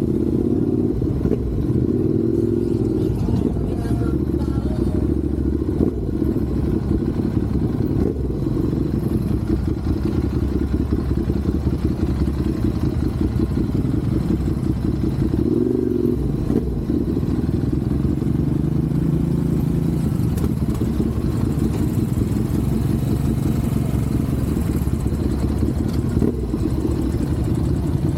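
Motorcycle engine running steadily with a fast, even pulsing, its pitch shifting a little as the revs change.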